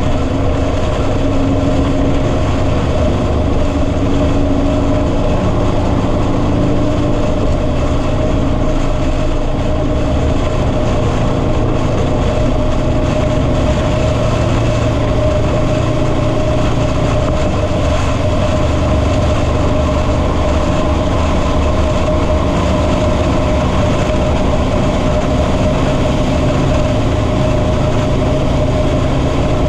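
Motorcycle riding at steady highway speed: an even engine drone with a constant rush of wind and road noise.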